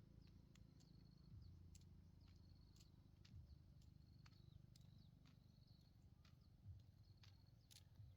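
Near silence: faint outdoor ambience with short, soft chirps about once a second and scattered faint clicks over a low steady hum.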